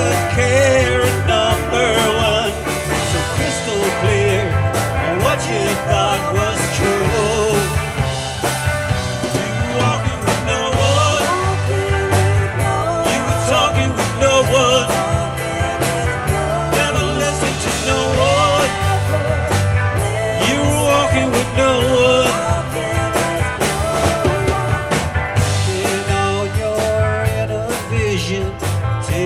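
Live rock band playing a song with guitars, bass, drums and keyboards over a steady beat, with singing.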